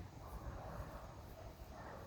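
Wind gusting across the phone's microphone: a faint, uneven low rumble with a soft rushing hiss.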